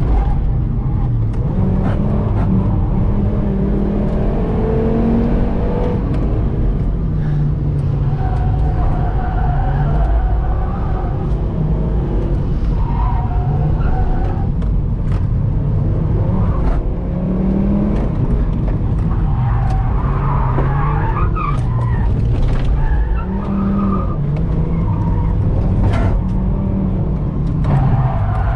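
Fiat Marea 2.0 20V inline five-cylinder engine driven hard on track, its pitch climbing and falling again and again through acceleration, gear changes and lifts, with tyres squealing at times through corners.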